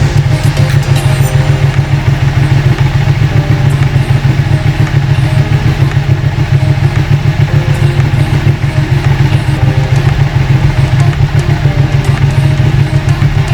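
Ducati Panigale's Superquadro V-twin engine idling steadily, being warmed up so the oil will drain easily for an oil change.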